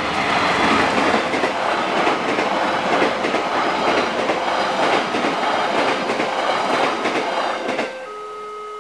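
Passenger train passing at speed over a level crossing: a loud rush of wheels clattering over the rails that cuts off about eight seconds in as the last coach clears. Under it, and clearly once it has passed, the crossing's electronic alarm keeps sounding two alternating tones.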